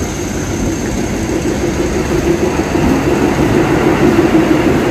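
Hindupur–Guntakal DEMU (diesel-electric multiple unit) train pulling into the station, its running rumble growing steadily louder as it comes in.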